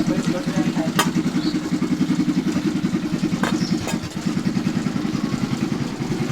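A small engine running steadily with a fast, even pulse, and three sharp clicks: one about a second in and two close together near the middle.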